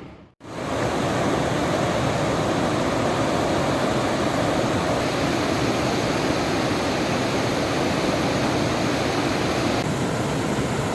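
Steady, loud rush of fast-flowing water, starting abruptly just after a brief silence and holding unchanged throughout.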